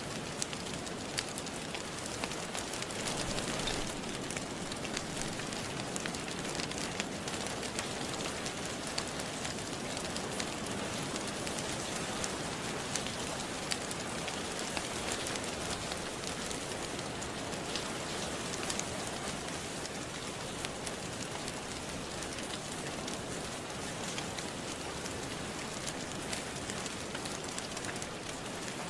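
Steady rain falling, with the scattered sharp pops and crackles of a wood fire burning in a fireplace.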